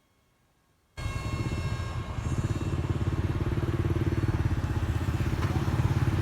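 Jet engine noise from a B-52 bomber: a steady low rumble with a faint steady whine, starting suddenly about a second in after near silence.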